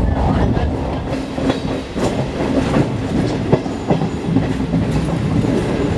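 Electric multiple-unit (EMU) local train running on the rails: a steady rumble of wheels and running gear, with a faint steady hum and a few sharp clacks as the wheels pass over rail joints.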